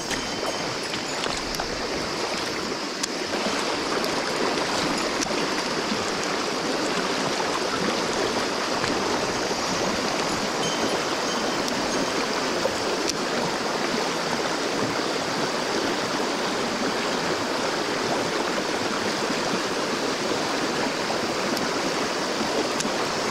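Mountain stream rushing and splashing over rocks, a steady water sound that grows a little louder about three seconds in.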